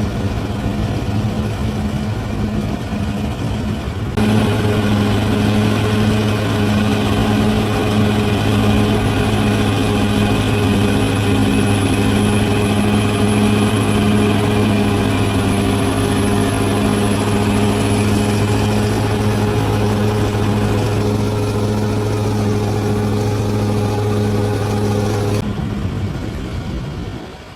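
Large bulldozer's diesel engine running steadily under work, growing louder and fuller about four seconds in, then dropping off sharply near the end.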